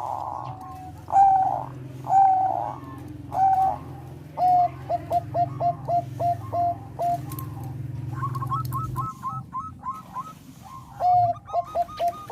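Zebra doves (Thai-type perkutut bangkok) cooing. A few longer coos come first, then rapid runs of short staccato coo notes, with a higher-pitched run partway through.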